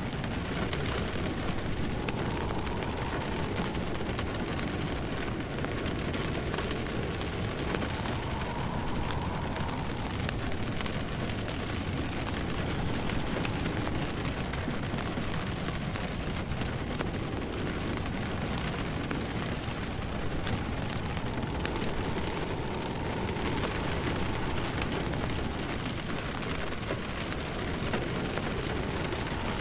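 Steady rain pattering, with a fireplace crackling over it: a blended rain-and-fireplace ambience.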